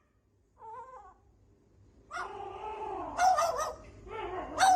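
A cat makes one short meow, then drawn-out wavering yowls from about two seconds in, with a couple of sharp clicks among them.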